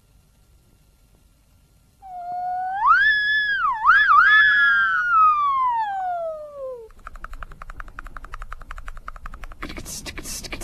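A single voice sings a high gliding note that rises, wavers twice and then slides slowly down. It is followed by a fast, even buzzing trill and, near the end, breathy percussive mouth sounds.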